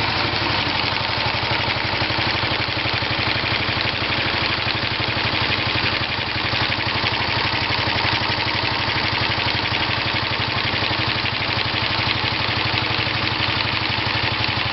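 Honda 125 engine head converted to a disc rotary valve, driven by an intermittent rotary motion mechanism, idling steadily at tick over with an even, rapid firing pulse.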